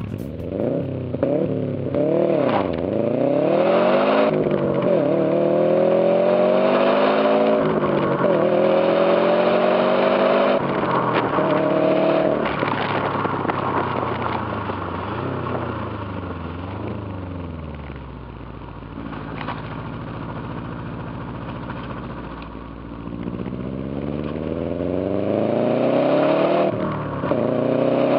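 2008 Subaru Impreza WRX STI turbocharged 2.5-litre flat-four running through a Ragazzon stainless steel sport exhaust with a straight-through centre pipe. The engine note climbs and drops repeatedly, settles lower and steadier about two-thirds of the way in, then climbs again near the end.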